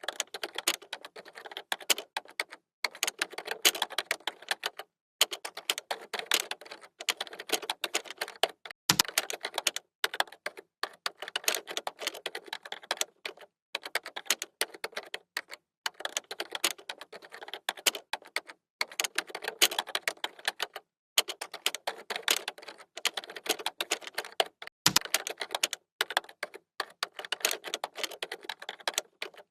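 Computer keyboard typing: rapid runs of key clicks in bursts of a second or two with brief pauses between them, and a deeper thump twice.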